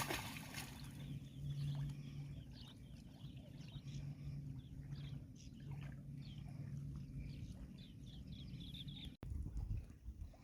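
Small birds chirping, with short repeated calls, over a low steady hum; the sound breaks off abruptly about nine seconds in.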